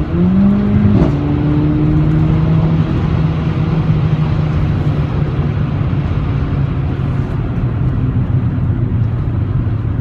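Mercedes-AMG CLA45's turbocharged 2.0-litre four-cylinder under acceleration: its note rises for about a second, then a quick upshift with a sharp crack drops the pitch, and it runs on steadily.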